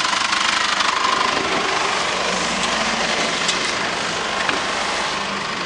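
Holden Colorado 2.8 litre four-cylinder turbo-diesel engine idling steadily.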